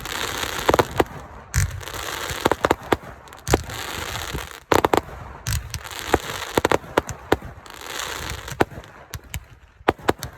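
Consumer fireworks going off: a rapid run of sharp cracks and bangs over stretches of crackling hiss that rise and fade every second or two.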